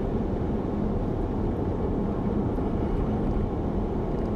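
Steady low road noise of a car driving, heard inside the cabin, with a faint constant hum.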